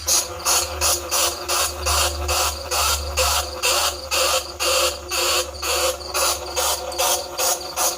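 Bandicoot rat squeaking: rapid raspy chattering squeals, about three bursts a second, over a steady low hum.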